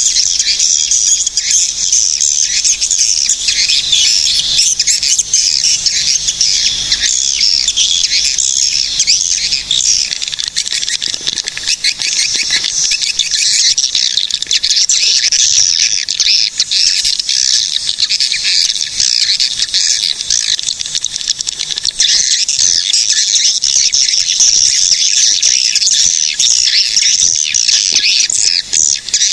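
Swiftlets calling in a dense flock: a continuous mass of rapid, high, overlapping chirps and twitters that never lets up.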